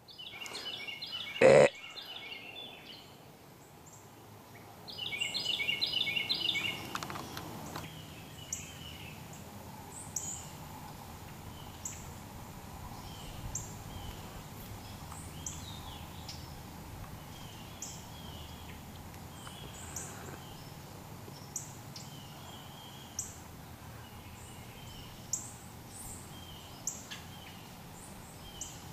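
Woodland birds calling: two harsh, rapid chattering series in the first seven seconds, then short, sharp high chip notes every second or two. A single sharp knock sounds about a second and a half in.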